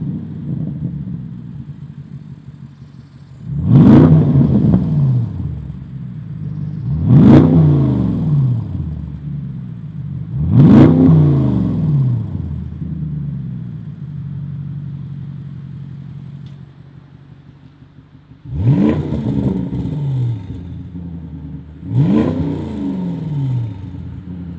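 Range Rover P530's 4.4-litre twin-turbo V8 through a Milltek Sport particulate-filter-back exhaust, revved in five sharp throttle blips. Each rev rises quickly and falls back to idle, with a longer stretch of idle between the third and fourth.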